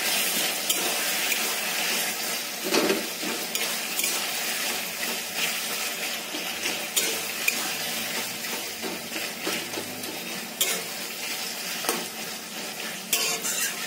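Onions, tomatoes and ginger-garlic paste sizzling in oil in a kadhai while a spatula stirs and scrapes through them, with scattered sharp clicks of the spatula against the pan.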